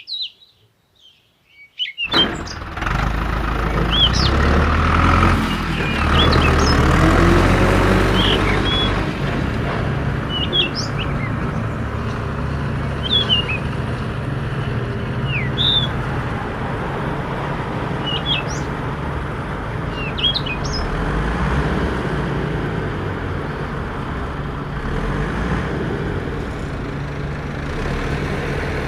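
A steady, low engine running starts about two seconds in, with birds chirping over it every second or two.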